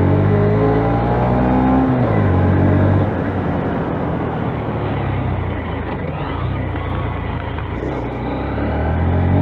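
Heavy wind rushing over a helmet-mounted microphone while riding at speed on a quiet electric bike. A low, wavering hum of several tones is there for the first few seconds and gives way to steady wind rush about three seconds in, then returns near the end.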